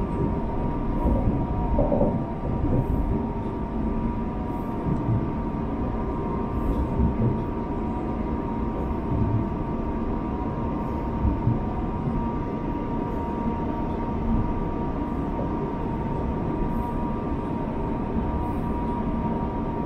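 Electric multiple-unit commuter train running: a steady rumble with a steady high hum over it.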